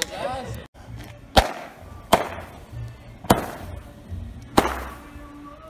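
Consumer firework cake launching comet shots: four sharp launch bangs about a second apart, each trailing off in a fading hiss.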